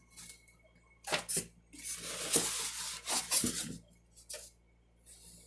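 Packaging being handled during an unboxing: a couple of light knocks, then about two seconds of loud crinkling and rustling, like a plastic bag or wrap being pulled open.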